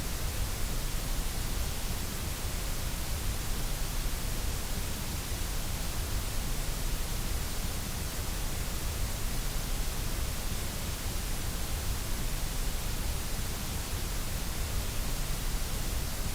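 Steady white noise: an even, unbroken hiss across the whole range with a low rumble underneath, unchanging throughout.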